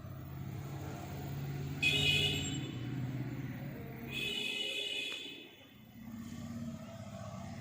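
A motor vehicle's engine running with a low rumble while a horn sounds twice, a short honk about two seconds in and a longer one about four seconds in. The engine noise drops away briefly after the second honk, then returns.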